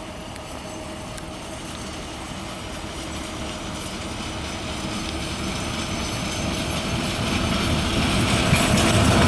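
Electric locomotive hauling a freight train, approaching and growing steadily louder as it nears, a rumble with a steady mid-pitched hum through it.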